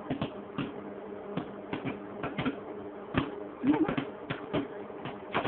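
Microwave oven running with a steady buzzing hum while popcorn kernels pop inside the bag in sharp, irregular cracks, a few a second.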